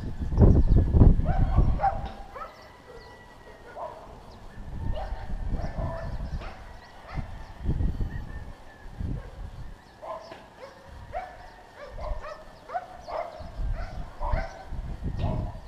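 A bird pecking at a window pane: irregular sharp taps, with short animal calls in between. Heavy low thumps fill the first two seconds.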